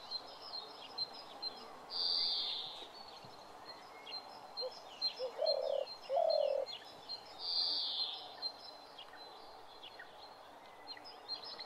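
Small birds chirping and twittering, with two brighter, longer calls about two seconds in and again near eight seconds, and two short lower notes a little past the middle.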